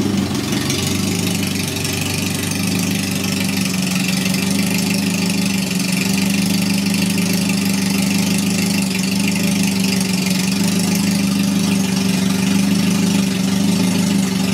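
Caterham 310S's Ford Sigma four-cylinder engine idling steadily on its first run after being built.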